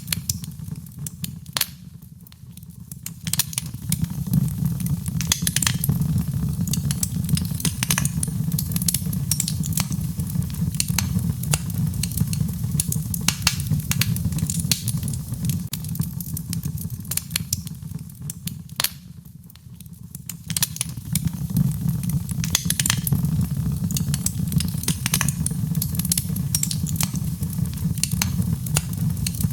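Wood fire in a fireplace crackling with frequent sharp pops over a steady low rumble, blended with rain. The rumble dips briefly twice.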